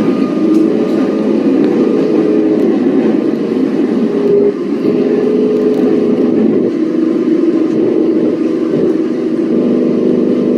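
Melbourne Metro electric suburban train running: a loud, steady rumble with several humming tones that shift in pitch.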